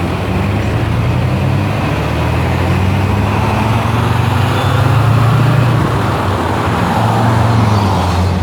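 Car driving along a road: steady engine hum with tyre and road noise.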